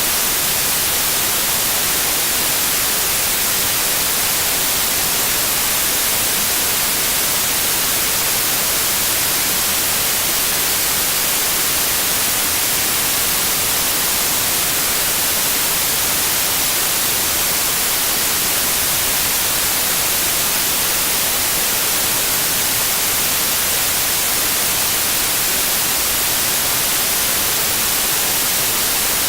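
Steady white noise: an even, unbroken hiss, brightest in the high frequencies, with no change throughout.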